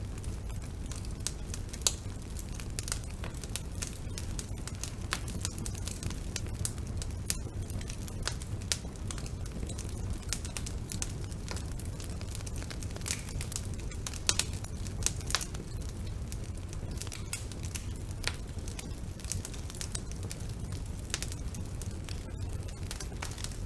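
Wood fire burning in a fireplace: a steady low rumble of flame with irregular sharp crackles and pops, a few louder snaps standing out.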